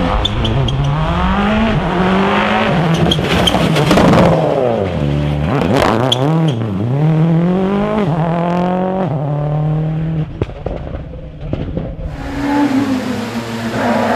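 Rally car engine revving hard through the gears, its pitch climbing and falling again and again, with sharp cracks from the exhaust around the middle. It fades about two-thirds of the way in, then another car's engine comes up near the end.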